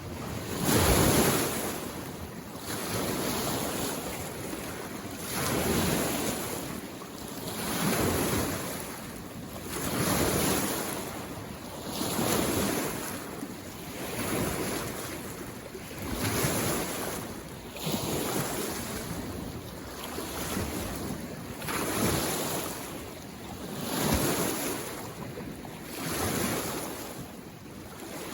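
Small waves on a mountain lake washing in, one swell of water noise about every two seconds.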